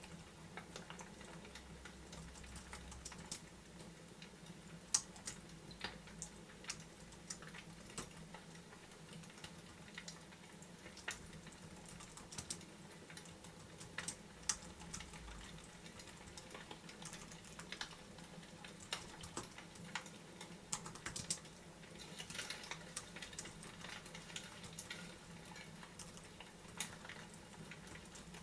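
Faint, irregular sharp clicks and crackles, a few a second, over a low steady hum.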